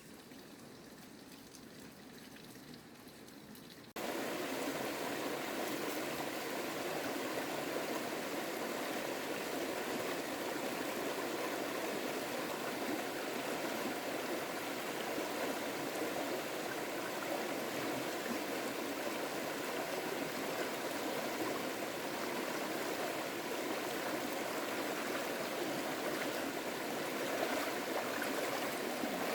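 Running water, a steady rush of flowing water that starts suddenly about four seconds in after a faint hiss.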